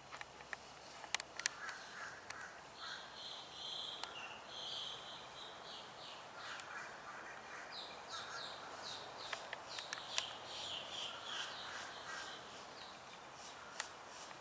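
A bird calling over and over, in a run of short, harsh calls, with a few sharp clicks among them.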